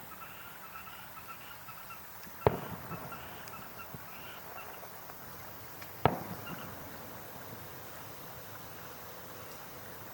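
Two fireworks shells bursting about three and a half seconds apart, each a sharp boom with a short echoing tail.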